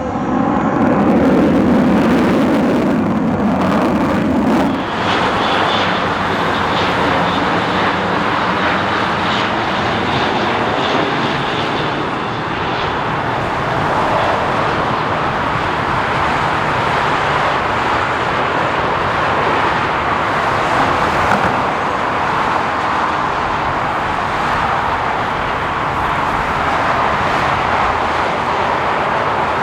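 Fixed-wing aircraft engine noise, loud and continuous. About five seconds in, a lower pitched rumble gives way to a broader, higher rushing noise.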